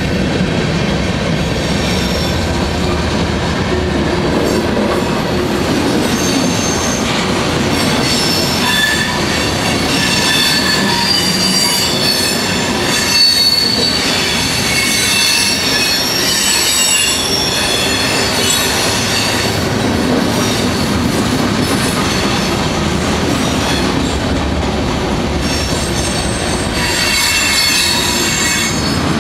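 Housatonic Railroad freight train cars rolling steadily past a grade crossing, with continuous wheel and rail noise. High-pitched wheel squeal comes and goes, strongest in the middle and near the end.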